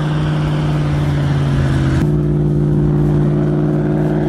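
A heavy vehicle's engine running at a steady pitch, with an abrupt change in the sound about two seconds in.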